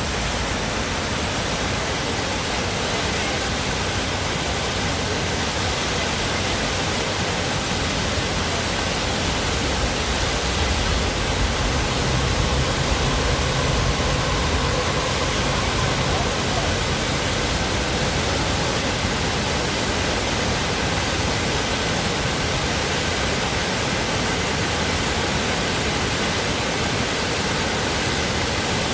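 Waterfall: water falling and splashing in a steady, even rush, swelling a little in the low end about halfway through.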